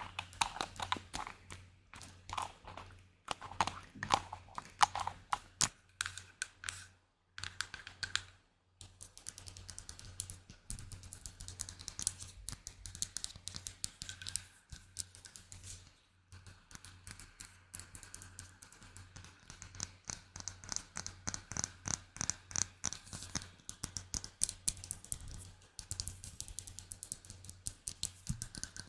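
ASMR tapping: fast, irregular close-up taps and clicks on hard objects, with short pauses about a quarter of the way in and again about midway.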